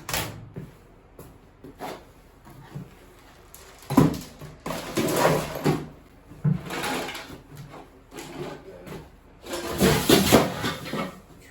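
Objects being handled and set down: irregular rustling and knocks, loudest about four seconds in, again around five to six seconds, and near the end.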